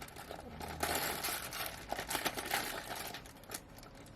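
Scratching, crinkling and small clicks from hands and a prying tool working at a phone's glued-in battery, busiest between about one and three seconds in, then fainter.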